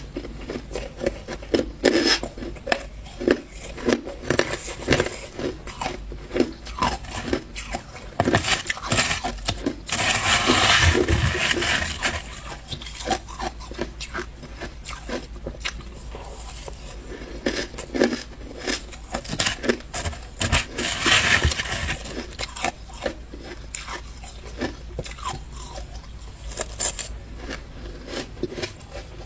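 Ice being bitten and chewed close to the microphone: a run of sharp crunches and crackles, with two longer, louder bouts of crushing, about ten and about twenty seconds in.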